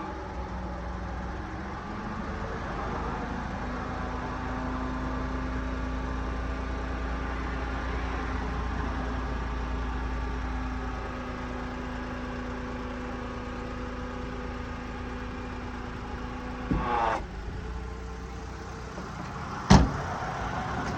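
Daihatsu Hijet mini truck's power dump box raising on its hydraulic lift, a steady mechanical whine and hum over the idling engine. The low hum eases off about eleven seconds in. Two sharp knocks come near the end.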